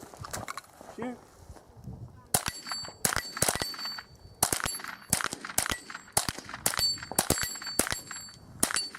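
A rapid string of .22 rimfire gunshots, about two dozen, starting a couple of seconds in, with steel targets ringing after the hits. The shots stop shortly before the end as the shooter runs out of ammunition.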